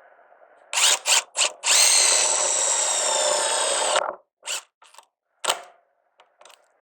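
Power driver driving a self-drilling screw: three short bursts, then about two seconds of steady drilling with a high whine that cuts off sharply, then several short bursts as the screw is tightened down.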